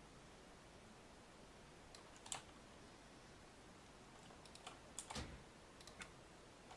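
A few sharp clicks over faint hiss: a single click about two seconds in, then a quick cluster of clicks around five to six seconds in.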